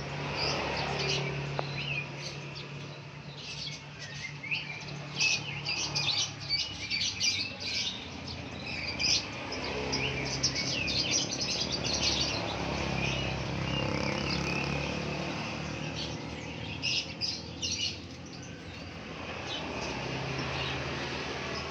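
A group of blue-crowned hanging parrots chirping, with many short, high calls overlapping, thickest in the middle stretch, over a low steady hum.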